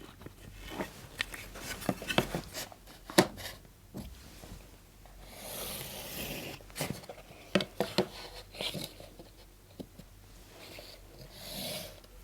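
Pen drawing on a board, with scattered taps and clicks as the pen and ruler are set down and lined up, and two longer rasping strokes, about five and a half seconds in and near the end, as lines are drawn along the ruler.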